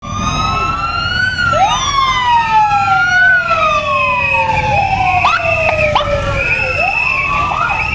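Several overlapping whistling tones, each gliding up and then slowly down in pitch, with a wavering higher whistle joining partway through and a steady low rumble underneath.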